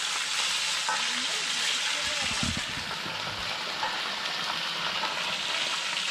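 Beef stir-fry sizzling steadily in a hot pan as it is stirred, with a few low knocks about two and a half seconds in.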